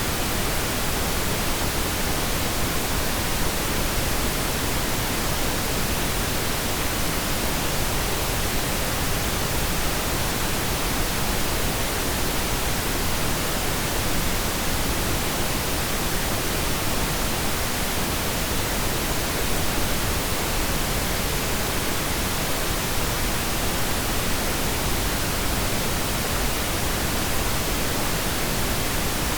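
Steady, unchanging pink noise: an even hiss spread from deep lows to high treble.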